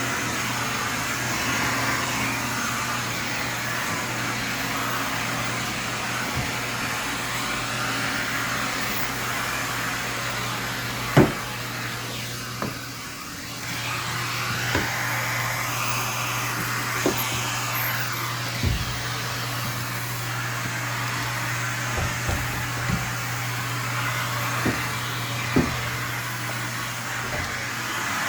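Vacumaid central vacuum running: a steady rush of air drawn through the hose and floor tool over a low hum, with scattered knocks as the tool bumps along. The suction sound dips briefly near the middle.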